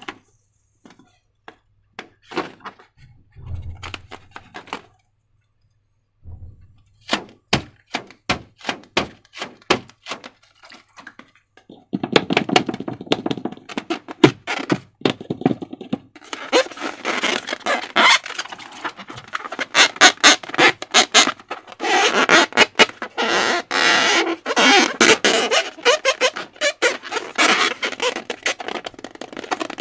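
Slime and balloons being handled at close range. First come scattered sharp sticky clicks and a couple of low thumps, then from about twelve seconds in, dense continuous crackling and clicking as the slime is worked.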